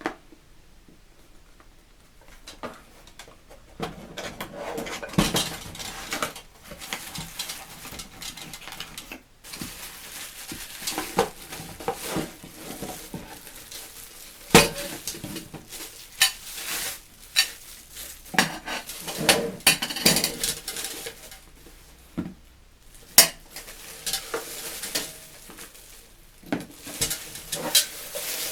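Stainless-steel fire pit parts being handled and fitted together: irregular metal clinks, knocks and scraping.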